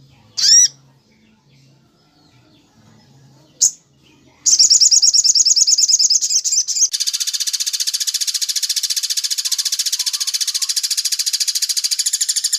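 Recorded birdsong for training songbirds: two short sharp chirps, then about four seconds in a loud, very fast high trill that turns into a harsher, denser rattle about seven seconds in.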